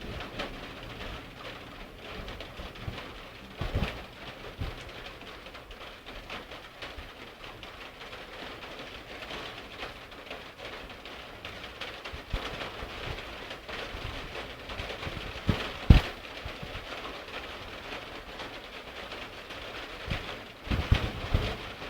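Steady heavy rain during a thunderstorm, falling hard on surfaces, with a few sharp knocks; the loudest knock comes about 16 seconds in.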